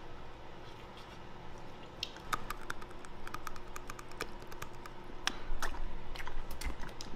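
A man chewing tender slow-boiled squirrel meat: irregular wet mouth clicks and smacks that come thicker from about two seconds in.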